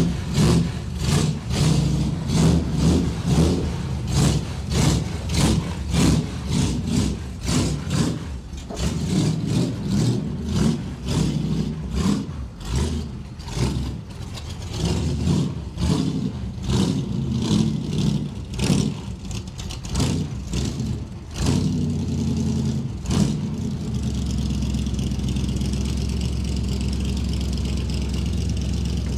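Shelby AC Cobra replica's V8 engine idling as the car pulls slowly out of the garage and down the driveway, pulsing unevenly about two to three times a second. From about three-quarters of the way through, the pulsing gives way to a steadier drone with a hiss on top.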